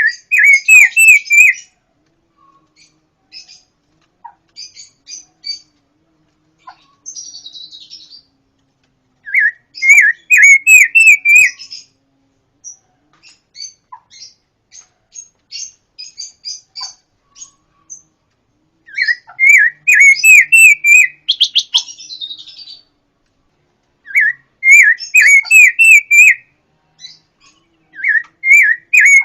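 Pancawarna songbird singing. It gives loud phrases of quick, bouncing whistled notes every few seconds, with softer scattered chirps in between.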